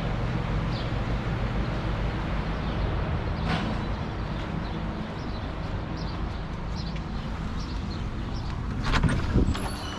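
A steady low machine hum, with faint short high chirps and a few sharp knocks near the end.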